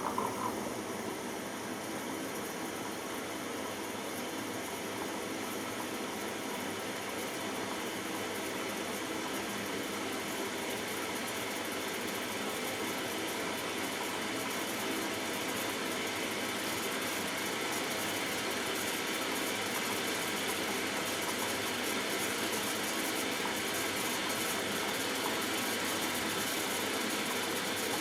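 Washing machine taking in water: the inlet valve has just opened and water rushes steadily into the drum, getting slightly louder as the fill goes on.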